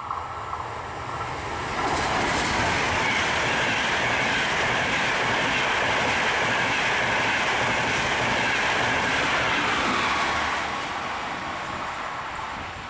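Express passenger train running through the station at speed: its noise builds as it approaches, holds as a loud rush of wheels on rails for about eight seconds while the coaches pass, then fades away.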